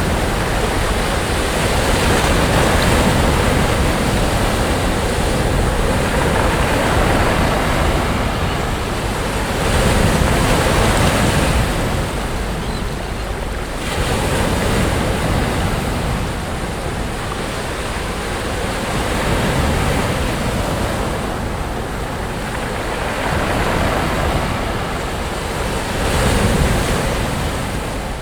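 Sea waves breaking and washing up a beach, the surf swelling and easing in repeated surges every few seconds.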